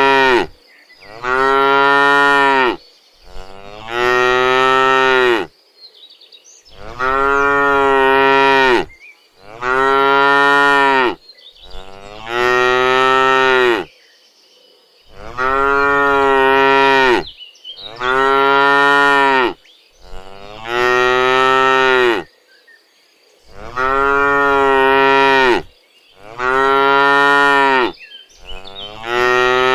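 Cattle mooing over and over: long, loud calls of about two seconds each, one roughly every three seconds with short pauses between.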